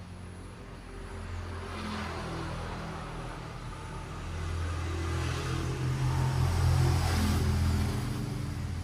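Battery-powered toy train's small electric motor and gears whirring as it runs along its track, growing louder as it comes closer, loudest about seven seconds in, then easing off.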